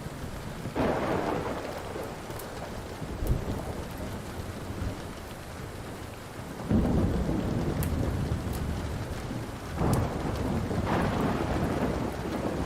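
Thunder rumbling over steady rain. One roll of thunder comes about a second in, a longer, louder roll about seven seconds in, and it swells twice more near the end.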